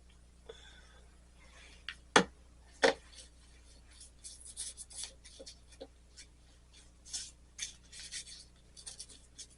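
Two sharp knocks about two seconds in, then a run of short, scratchy rubbing strokes as black patina is worked onto the solder seams of a stained-glass piece.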